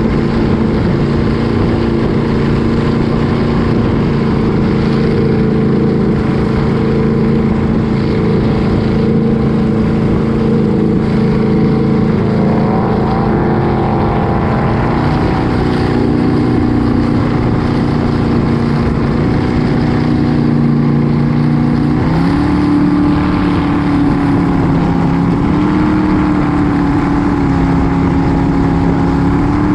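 Motorboat engine running steadily at speed under a constant rush of wind and water noise, its pitch stepping up about halfway through and again about two-thirds of the way through.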